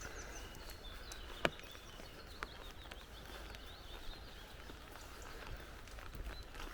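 Forest birds calling with many short, high chirps and quick sliding notes over a steady low background. A few sharp clicks cut through, the loudest about a second and a half in.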